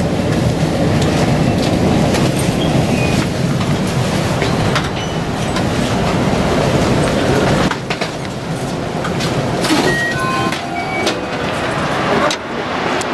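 Local electric train running slowly into a station, heard from inside the car: a steady rumble of wheels and motors that drops off sharply about two-thirds of the way in. A few short beeping tones, each lower than the last, follow near the end as passengers step off.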